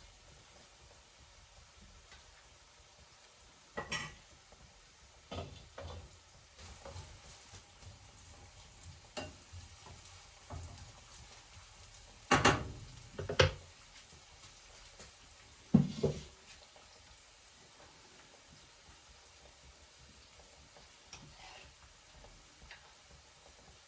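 Cooking sounds: a utensil stirring, knocking and scraping against a pan, a dozen or so separate knocks with the loudest near the middle, over a faint steady sizzle of food frying.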